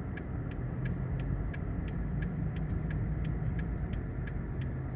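EMD diesel switcher locomotives (MP15s and a GP38) running steadily past at low speed, a low engine rumble with an even ticking about four times a second.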